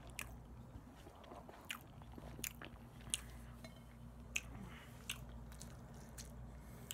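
Close-up chewing and biting of barbecue chicken, with sharp wet mouth clicks about once a second.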